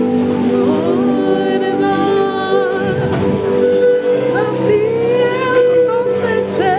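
Slow gospel worship music: sustained keyboard chords with a voice singing long, sliding, wavering notes over them.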